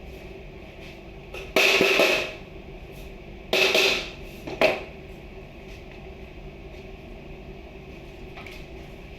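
Two loud clattering, scraping noises, each under a second long, then a single sharp knock, as things are moved and set down, over a steady hum.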